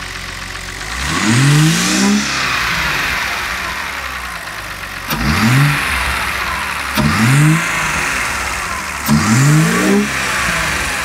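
BMW 330i's N52 straight-six idling and revved four times, each rev a short rise in pitch that falls straight back. The engine is running badly because the Valvetronic servo motor has not fully calibrated itself.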